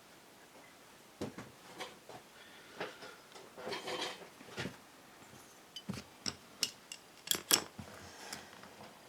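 Small metal carburettor parts and tools clinking and tapping as they are handled on a bench, in scattered clicks with two sharper clinks about seven and a half seconds in.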